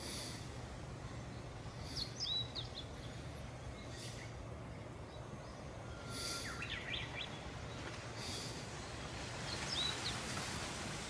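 Outdoor ambience of small birds chirping: short upturned high chirps every few seconds, and a quick run of notes about six seconds in. These sit over a steady low background rumble and brief hissing bursts roughly every two seconds.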